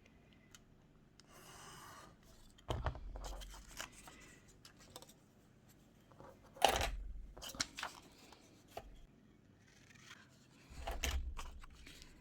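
Paper being handled and cut or torn: scattered rustles and taps with a few louder strokes, the loudest about seven seconds in.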